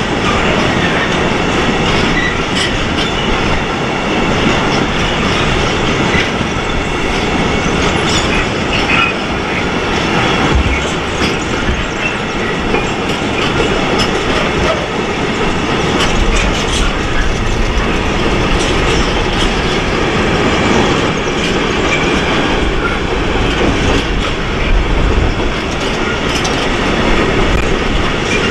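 Freight train of covered hopper wagons rolling past at speed: a steady, loud rumble of steel wheels on rail, with the clickety-clack of wheels over rail joints.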